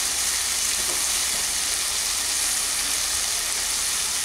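Brinjal curry sizzling steadily in a steel kadai, an even hiss: the gravy has cooked down almost dry and the curry is frying in its oil.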